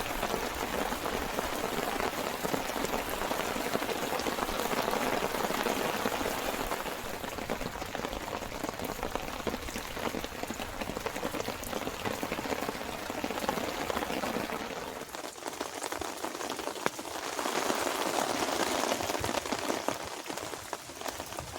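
Steady rain pattering on surfaces, a dense spread of drops, easing slightly about two-thirds of the way through and picking up again near the end.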